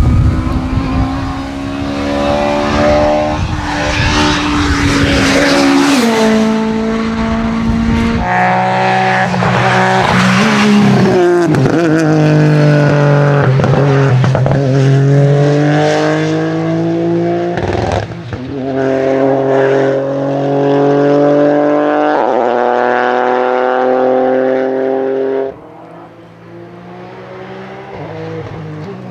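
Rally cars driven flat out, one after another: engine notes climbing and dropping through gear changes and lifts. A few seconds before the end the sound falls away suddenly to a quieter, more distant engine.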